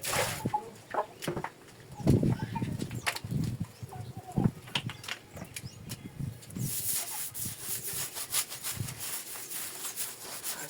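Household cleaning sounds: scattered knocks and clatter of things being handled, then from about two-thirds of the way in a steady hiss with quick, repeated scraping strokes.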